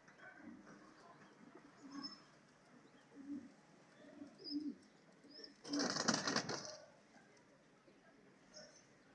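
Pigeons cooing in short low notes, with a loud flurry of wing flapping about six seconds in and a few faint high chirps.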